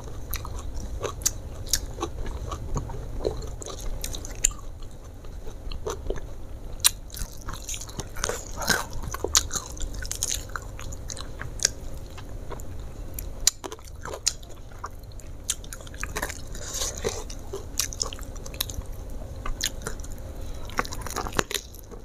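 Close-miked mouth sounds of a person eating by hand: chewing, lip-smacking and small crunches of rice and crispy fried chicken, as many short irregular clicks and smacks.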